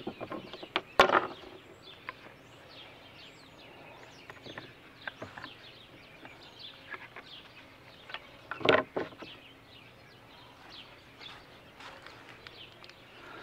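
Birds chirping in the background, with a couple of sharp knocks as a plastic drilling jig and hinge hardware are handled on a plywood panel, about a second in and again a little past the middle.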